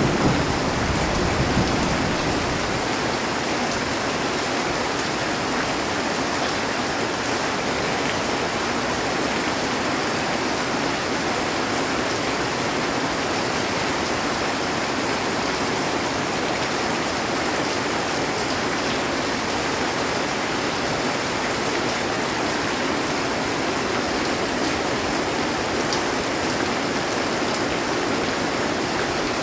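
Heavy rain drumming steadily on a metal roof, a dense even hiss. A low thunder rumble fades out in the first two seconds.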